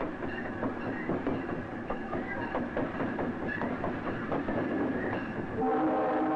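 A train running along the track with an irregular clatter of wheels over rail joints. About five and a half seconds in, its horn starts sounding a loud, steady chord of several notes.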